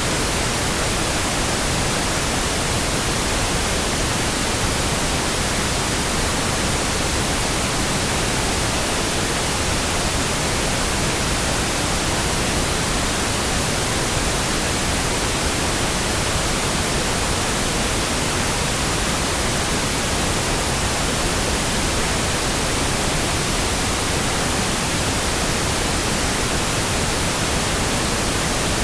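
Steady pink noise: an even, unbroken hiss at a constant level, with no other events.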